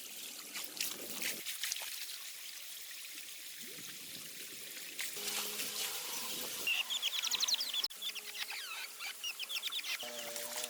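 Water trickling, with scattered small clicks. From about halfway in, a low steady hum joins, and a bird sings fast runs of short repeated chirps.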